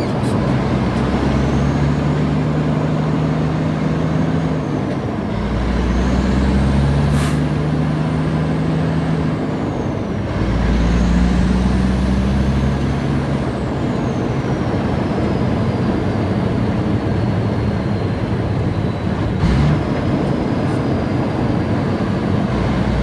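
Heavy diesel truck engine pulling away and working up through the gears. The engine pitch climbs and then drops at each shift, two or three times, with a faint turbo-like whine rising and falling over it.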